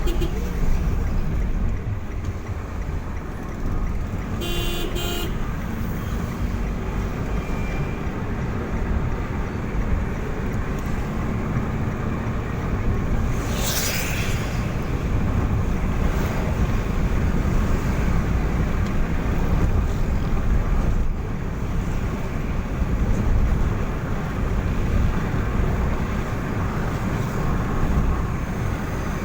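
Motor vehicle travelling on a road: a steady low rumble of engine and tyres, with a brief horn toot about five seconds in and a short whoosh about halfway through.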